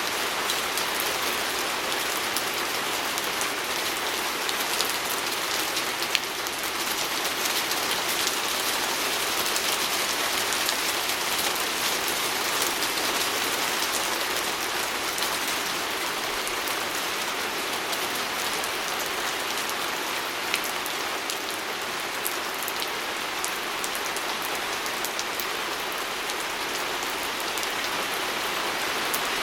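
Steady rain pattering on a window pane, a dense even hiss of drops with fine individual drop ticks and one sharper tap about six seconds in.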